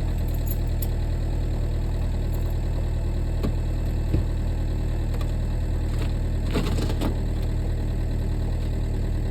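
Volkswagen Beetle TDI's four-cylinder turbodiesel idling steadily, still cold after a start at about 15°F, with the knocking clatter of a diesel. A few brief clicks, the sharpest about four seconds in, and a short rattle a little later.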